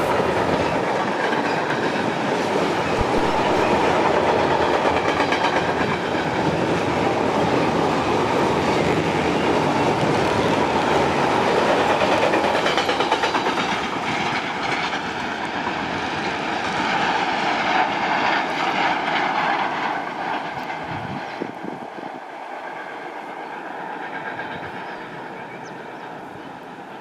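A train running past on the rails, loud at first, its noise fading away over the second half as it moves off.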